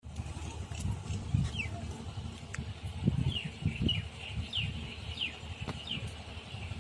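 A bird calling in short falling chirps, repeated many times, over an uneven low rumble with a few sharp clicks.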